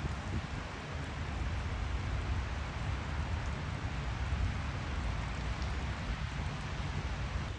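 Rain falling steadily, an even continuous hiss with a low rumble underneath.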